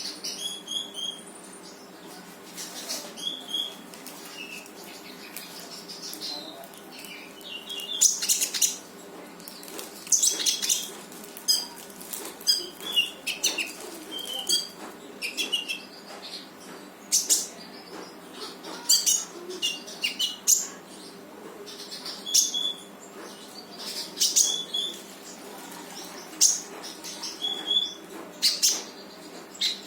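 Konin bird singing in full voice: repeated short, sharp chirps and rapid-fire bursts of notes coming every second or so, with a faint steady hum beneath.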